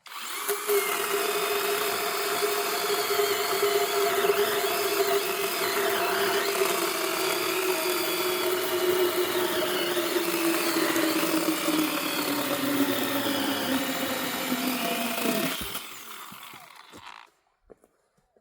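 A power tool's motor runs steadily for about fifteen seconds, its pitch slowly sinking, then winds down and stops.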